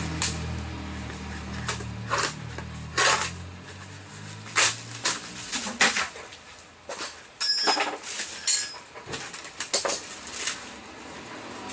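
Metal engine parts and hand tools clinking and knocking as they are handled and lined up on the car, including a couple of ringing metallic clinks past the middle. A low engine-like hum runs underneath and fades out about halfway.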